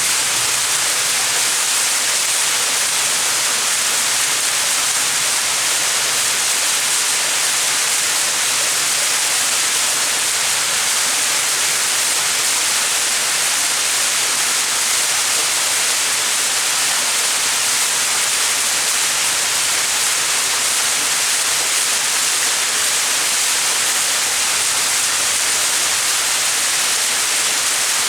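Small mountain waterfall: water falling and splashing steadily, a constant bright hiss.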